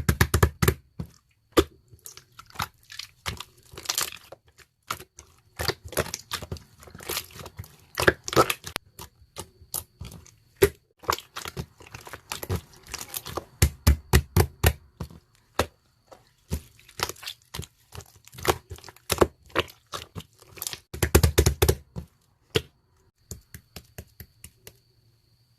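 Blue slime being squeezed and worked by hand, giving dense runs of crackling, popping clicks. The clicking thins out and stops about 23 seconds in.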